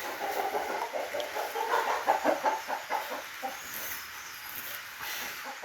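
Chickens clucking, a run of many short, quick clucks.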